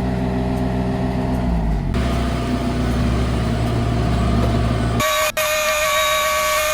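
Construction machinery engine running steadily at the excavation, its pitch dropping briefly about a second and a half in. Near the end, a loud steady high-pitched whine with several tones takes over.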